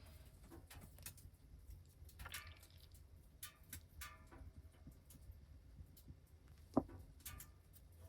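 Light clinks and taps of cooking utensils against a pan and dish, some with a short ring, and one sharper knock about seven seconds in.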